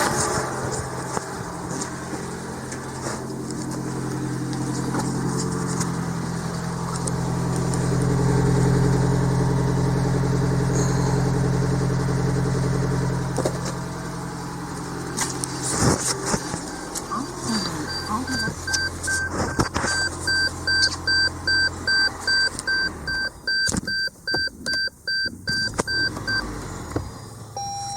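Lexus NX300h's 2AR-FXE 2.5-litre four-cylinder hybrid engine running steadily, growing louder for several seconds about a quarter of the way in, then dying away about three-quarters through. Through the second half a short electronic beep repeats about twice a second.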